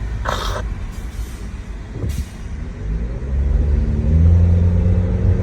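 Car engine and road noise heard from inside the moving car. About three seconds in, the engine note rises slightly and then holds steady and louder, as the car speeds up.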